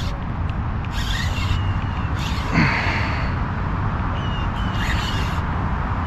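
Open-air ambience on the water: a steady low rumble with several short, high bird chirps scattered through, and one brief louder swish about two and a half seconds in.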